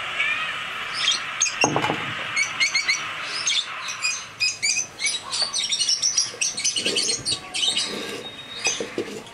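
Small birds chirping busily, many short quick calls overlapping throughout.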